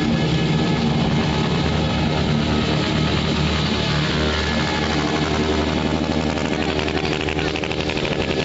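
Motorcycle engine idling and running steadily.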